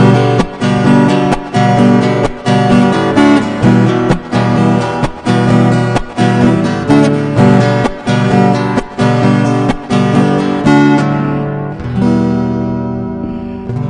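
Acoustic guitar strummed in a steady rhythm, then a final chord left to ring out and fade over the last few seconds, closing the song.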